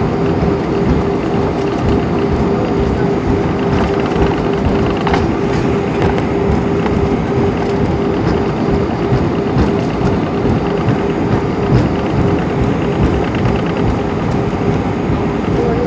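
Cabin noise inside an Airbus A320-232 with its IAE V2500 engines running: a loud, steady rumble with a steady mid-pitched hum held throughout.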